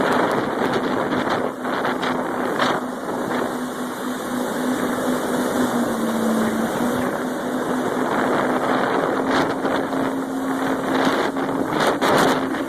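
Jet ski engine running steadily under way, its pitch dipping briefly about halfway through and then recovering, with wind buffeting the microphone and rushing water.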